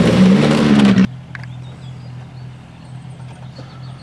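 Rally car engine running hard for about a second, then an abrupt cut to a much quieter scene: a steady low engine hum, one click and faint high chirps.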